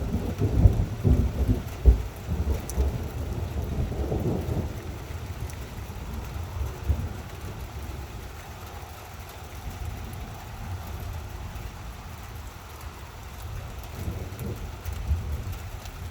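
Thunder rumbling, loudest in the first few seconds and then dying away, over steady rain.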